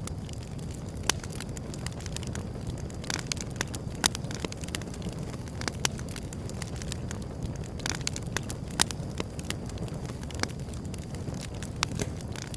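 Wood fire burning: irregular sharp crackles and pops over a steady low rush, with a few louder snaps.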